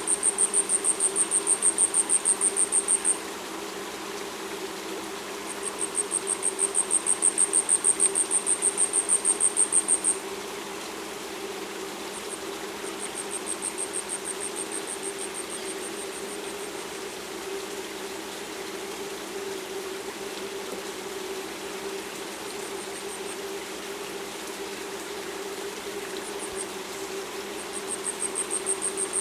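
Asian stubtail song: a very high, thin, insect-like series of rapid notes, each train lasting several seconds and swelling in loudness, given four times. A steady low hum runs underneath.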